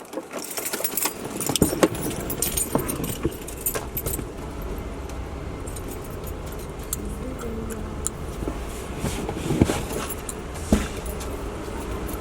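Clicks and rattles of things being handled inside a stopped car, over the low rumble of the car's engine running. The rattling is busiest in the first few seconds, and there are two sharper clicks near the end.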